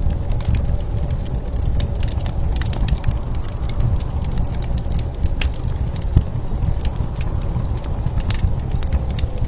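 Wood fire crackling with frequent irregular sharp pops, over a steady low rumble of blizzard wind.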